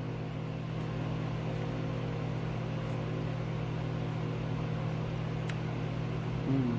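Steady low hum over a faint hiss, as of a fan or appliance running, with a single click about five and a half seconds in.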